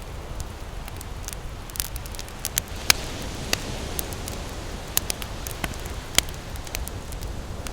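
Wood campfire crackling, with irregular sharp pops and snaps, the loudest about three and six seconds in, over a low steady rumble of ocean surf.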